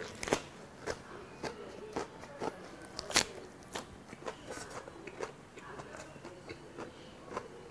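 Close-miked chewing of a napa cabbage leaf wrapped around thin beef jeon. Crisp crunching clicks come about twice a second, the loudest about three seconds in.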